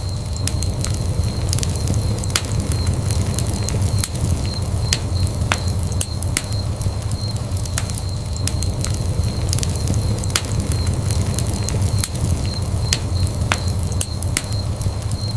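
Wood fire burning in a fireplace: a steady low rumble of flame with frequent sharp, irregular crackles and pops, and a faint steady high tone underneath.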